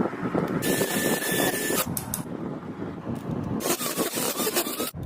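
Hand work on engine gears: two long scraping, rubbing passes of about a second each, the first starting about half a second in and the second near the end, with small clicks and knocks throughout.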